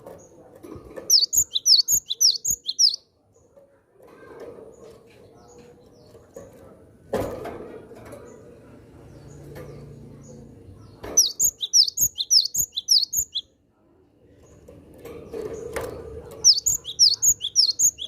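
Cinereous tit (gelatik batu) singing three bursts of rapid, high, falling chirps, about six notes a second, each burst about two seconds long. A sharp knock comes about midway through.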